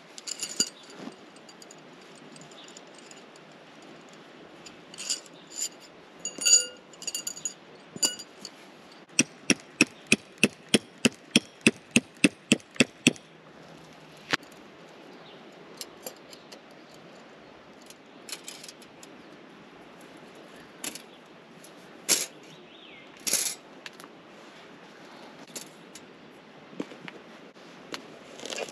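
Small handling sounds: a few ringing metallic clinks, then a quick regular run of about four sharp clicks a second lasting some four seconds, then scattered knocks.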